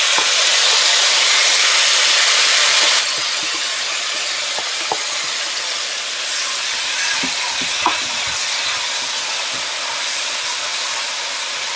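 Masala paste sizzling as it hits hot tempering oil in a non-stick karahi, loudest for about the first three seconds, then settling to a steady frying sizzle as it is stirred.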